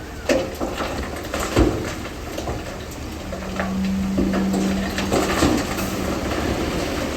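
Komatsu bulldozer working over rock: sharp metallic clanks and rock clatter, the loudest about a second and a half in. A steady engine hum joins about three seconds in.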